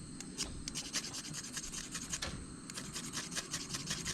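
Irregular scratching and rubbing with many small clicks.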